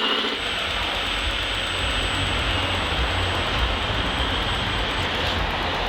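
Radio-controlled model construction machines running: a steady mechanical whir with a low rumble, and a thin high whine that stops about five seconds in.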